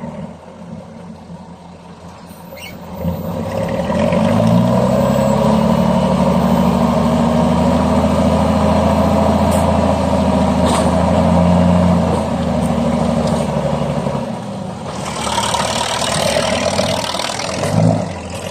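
Heavy diesel engine revving up about three seconds in and running hard and loud, then easing off, followed by a broad hissing rush near the end.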